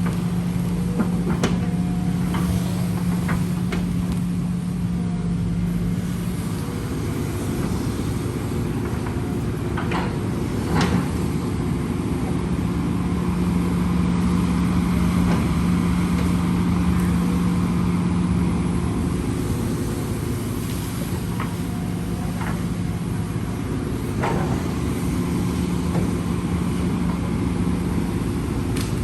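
Heavy earthmoving machinery running, its engine drone heavier for stretches of several seconds and easing between them, with scattered sharp knocks.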